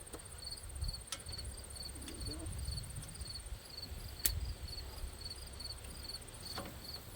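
Crickets chirping steadily, about two to three pulses a second, with a few sharp clicks over it, the loudest about four seconds in.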